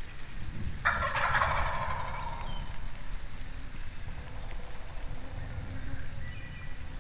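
Wild turkey gobbler gobbling once: a sudden rattling call about a second in that trails off over about a second and a half, over a low rumble.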